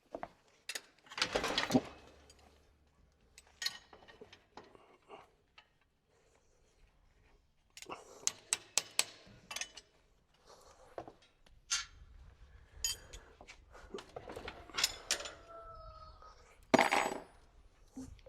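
Metal parts and hand tools being handled on a workbench: scattered sharp metallic clinks, clicks and knocks, with a brief ringing tone about three-quarters of the way through.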